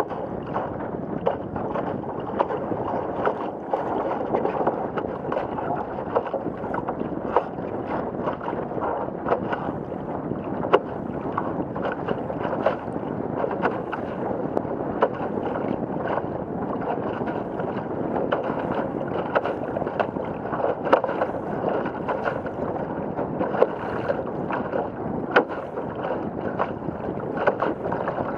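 Water rushing past and slapping against a Laser sailing dinghy's hull as it sails in heavy wind: a steady wash broken by frequent short, sharp slaps.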